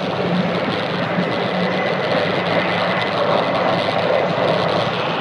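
Jōetsu Shinkansen train running at speed, heard inside the passenger cabin: a steady rushing noise with a constant low hum and a faint high whine.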